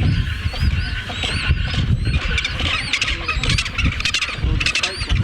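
Many birds calling in quick succession: short, high chirps that rise and fall in pitch, over a steady low rumble.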